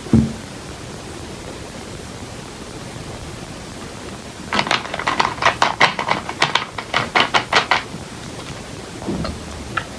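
Noodles being slurped in a quick run of about a dozen short, sharp sucks, roughly four a second, over a steady hiss. A single dull thump at the very start.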